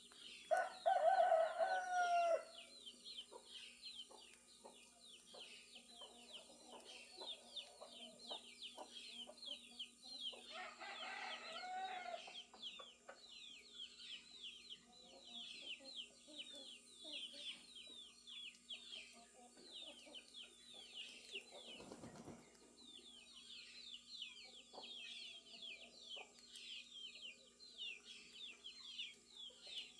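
A rooster crowing, loudest about a second in and again, fainter, around eleven seconds in, over continuous rapid chirping of small birds. A brief burst of noise comes a little after twenty seconds.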